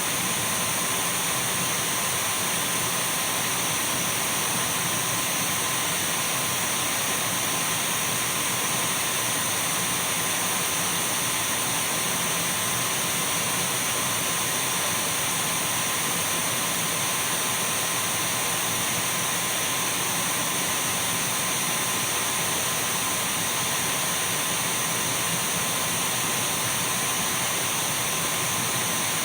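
Dyson V12 cordless stick vacuum cleaner running steadily at constant speed: an even rush of airflow with a thin, steady motor whine, never changing.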